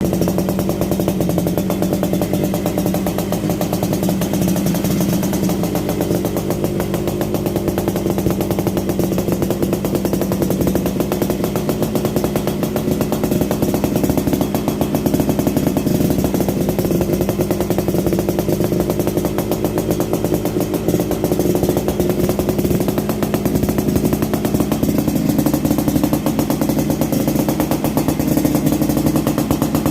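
Motorcycle engine running steadily through a chrome 'standard racing' aftermarket exhaust muffler, with an even, unchanging exhaust pulse and no revving.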